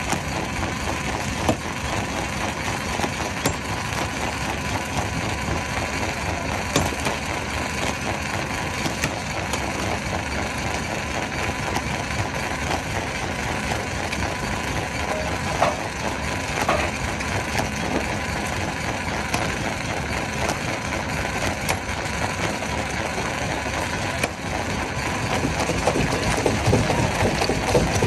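Stone crusher breaking rock: a continuous clatter of cracking and grinding stone, getting a little louder near the end.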